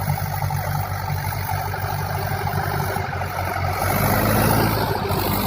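Tractor diesel engine running steadily under a tiller, growing slightly louder about four seconds in.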